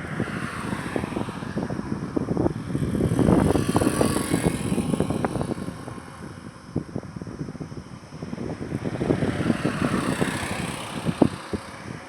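Road traffic: vehicles passing, their tyre and engine noise swelling twice, about three seconds in and again about ten seconds in, with wind buffeting the microphone.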